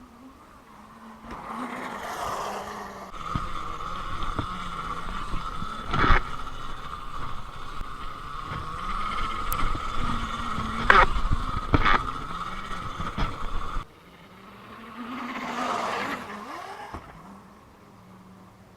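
Electric dirt bike's motor whining steadily while it is ridden, a lower tone underneath rising and falling with speed, broken by several sharp knocks; the whine cuts off suddenly after about ten seconds. Short rushes of wind or tyre noise come before and after it.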